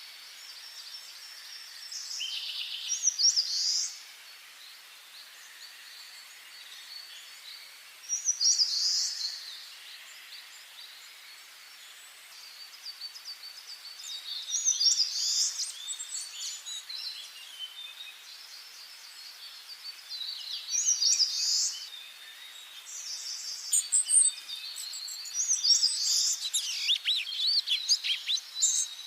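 Songbirds singing in a forest, a short, high, trilled phrase repeated about every five or six seconds over a faint steady hiss. The phrases come thicker and overlap near the end.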